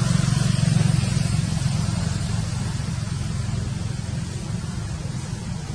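A motor engine running steadily with a low hum, slowly growing fainter.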